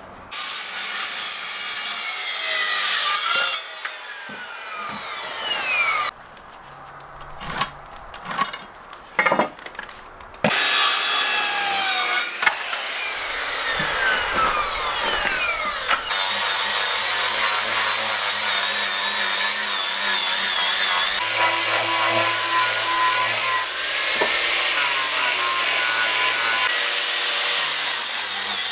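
Electric power saw cutting wooden boards. In the first half the motor starts and winds down several times with falling whines between short cuts, then it runs steadily through a long continuous cut.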